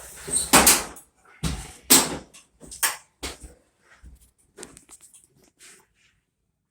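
A run of sharp clunks and knocks from the dryer's door and cabinet being handled: several heavy ones in the first three seconds or so, then lighter taps and rattles.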